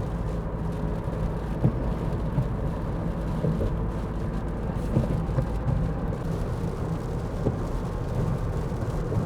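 Car driving, heard from inside the cabin: a steady low rumble of engine and road noise with a few faint taps.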